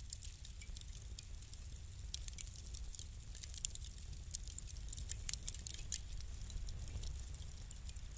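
Wood fire crackling in a fireplace: a dense run of small, irregular pops and snaps over a steady low rumble of burning, with a few sharper cracks about two seconds in and again near six seconds.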